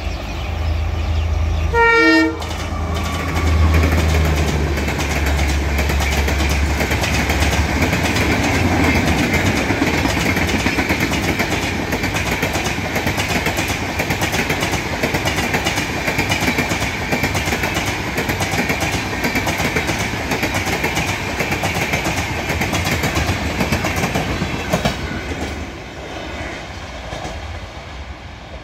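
Indian Railways passenger train passing at speed. A short horn blast sounds about two seconds in, with a low rumble from the locomotive. Then comes a long steady rush and clatter of the coaches' wheels on the rails, which dies away near the end as the last coaches go by.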